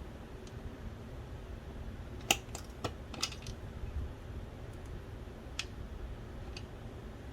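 Scattered light clicks and taps of small parts of a Philips DVD drive being handled during disassembly, the loudest a sharp click about two seconds in, with a cluster just after it and two more later on. A low steady hum runs underneath.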